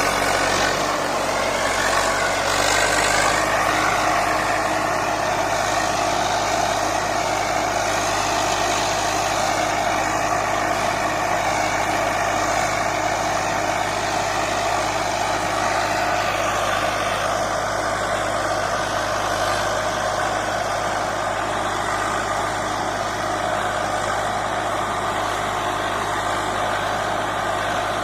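Swaraj 855 tractor's three-cylinder diesel engine running steadily, its note changing slightly about halfway through.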